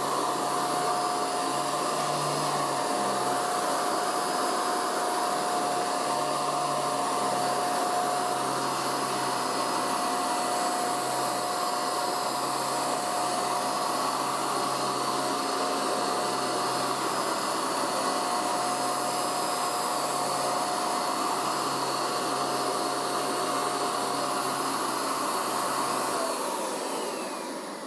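Hoover UltraMATT handheld mattress vacuum cleaner running steadily with a constant whine, then switched off near the end and winding down.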